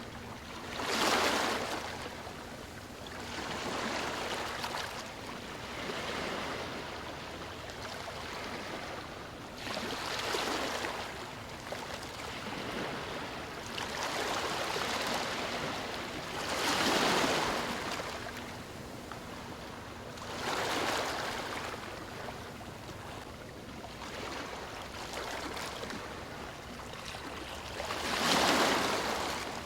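Gentle ocean waves lapping on a shore: a steady wash of surf that swells as each wave comes in, every few seconds, with the strongest waves about a second in, midway through and near the end.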